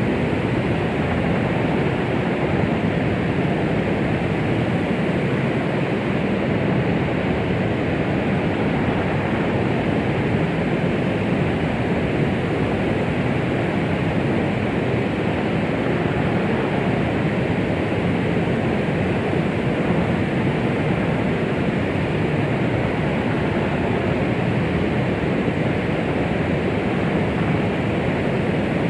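Steady white noise meant to mimic the sound of the womb for calming a baby: an even, unbroken hiss, deep and muffled rather than bright, with no rhythm or change.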